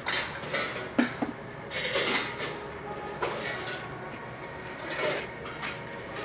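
Freight train cars rolling past: irregular metallic clanks and rattles from the cars and wheels on the rails, with a sharp bang about a second in.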